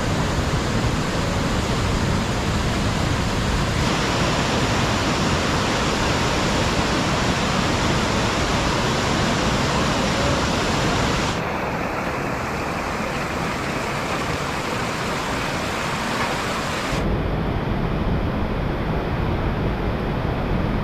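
Steady rushing of a mountain valley stream in the rain, its tone changing abruptly three times at cuts between clips.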